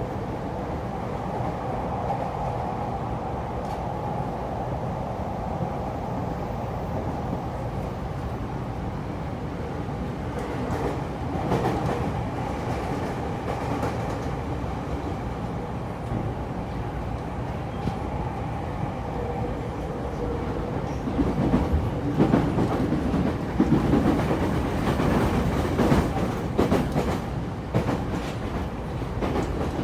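JR East E231 series electric train running, heard on board: a steady rumble with a couple of held tones. About two-thirds of the way in it grows louder and rougher, with frequent clicks of wheels over rail joints.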